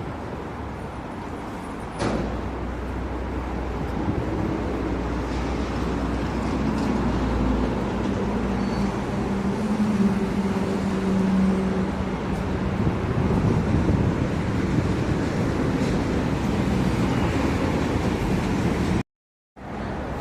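Street traffic: the steady noise of vehicle engines and tyres, with a deep engine rumble from a large vehicle such as a bus. The sound cuts out for about half a second near the end.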